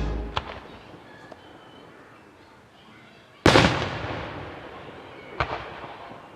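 Fireworks bursting: a sharp report just after the start, one loud boom about three and a half seconds in that rolls away in a long fading echo, and another sharp report about two seconds later.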